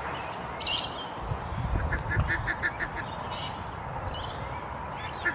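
Ducks quacking: a quick run of short calls about two seconds in, with a few scattered higher calls, over a low background rumble.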